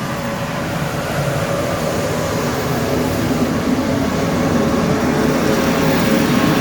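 Steady road and engine noise of a car driving, heard from inside the cabin, growing slightly louder toward the end.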